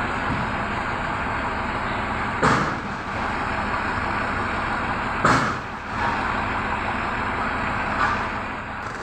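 Truck driving on the road with a steady engine and road noise, broken twice by a short, sharp burst of noise about three seconds apart.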